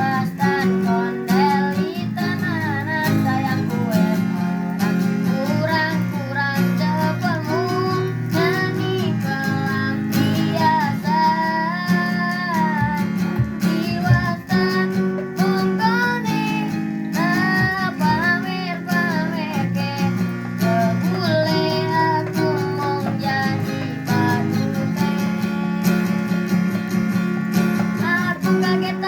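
A child singing a song with a strummed acoustic guitar accompanying, the voice carrying a wavering, sliding melody.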